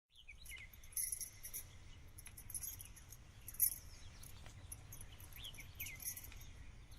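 Insects chirping in short repeated high pulses, with a couple of brief falling bird calls and a faint low rumble underneath; a single sharp click about three and a half seconds in.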